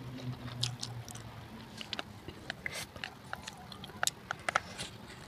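Close-miked eating: a mouthful of spicy instant noodles being slurped and chewed, with irregular wet mouth clicks and smacks. A low hum fades out about a second in.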